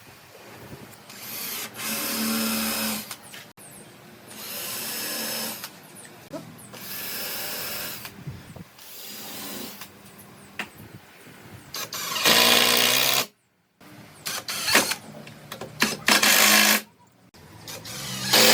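A power tool running in short bursts of about a second each, starting and stopping again and again with quieter workshop sound between. The sound drops out to silence briefly about two-thirds of the way through.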